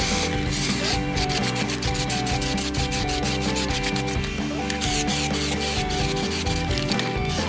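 Fast, even rubbing strokes, about eight a second, like hand sanding or scraping, over background music with a stepping melody.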